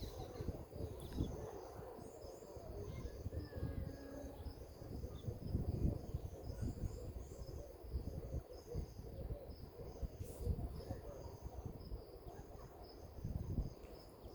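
Evening insects chirping steadily with a few bird chirps, over an uneven low rumble.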